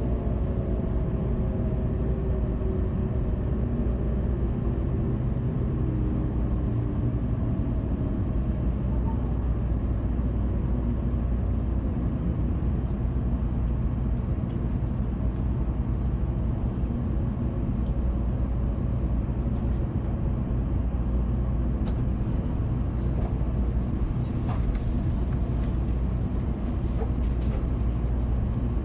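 Shinkansen train heard from inside the passenger car: a steady low running rumble, with the motors' whine falling in pitch over the first several seconds as the train slows on its approach to Atami station. A few faint ticks come near the end.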